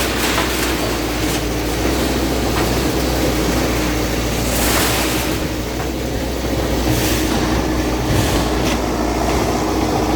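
Heavy diesel earthmover running steadily, with irregular metallic clanks and knocks over the engine hum.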